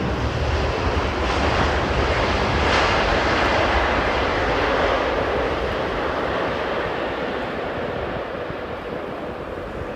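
Jet airliner passing close by, its engine noise swelling to a peak about three seconds in and then slowly fading away.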